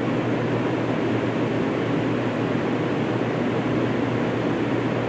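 Steady, even background noise like a fan or air conditioner running, with a low hum underneath; no speech.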